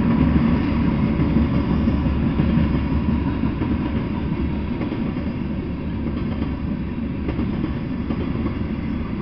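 Freight train's covered hopper cars and tank cars rolling past: a steady rumble of steel wheels on rail that eases slightly toward the end.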